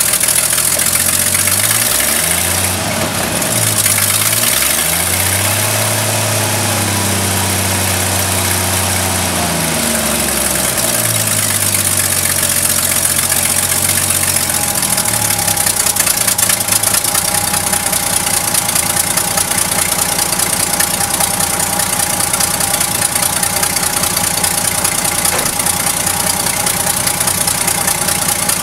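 1972 Chevrolet Custom 10 pickup's engine running. It is revved up and down a few times in the first dozen seconds, then settles to a steady idle.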